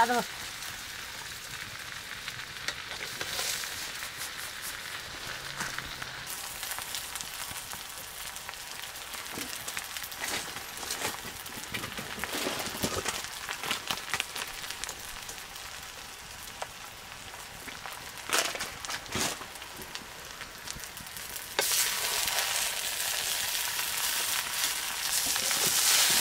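Food sizzling as it fries in a pan, with now and then a sharp scrape or knock of stirring. The sizzle gets louder near the end.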